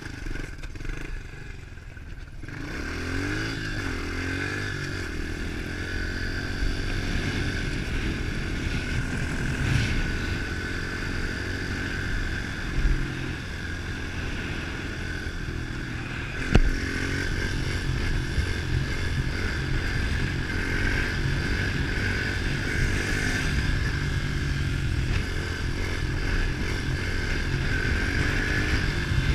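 110cc pitbike's single-cylinder four-stroke engine pulling away after about two seconds, its revs rising, then running steadily at riding speed. A single sharp knock comes a little past halfway.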